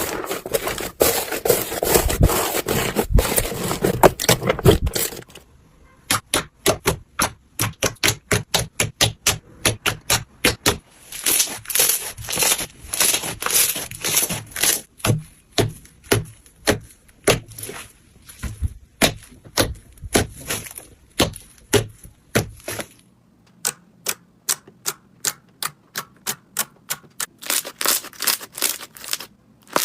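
Slime being pressed and stretched by hand: dense crackling for about five seconds, then a long run of sharp clicks and pops, a few a second, turning to a faster run of clicks near the end.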